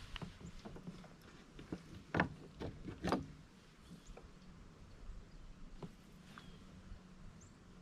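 Scattered knocks and clunks on a kayak, with two louder ones about two and three seconds in, over a faint steady low hum.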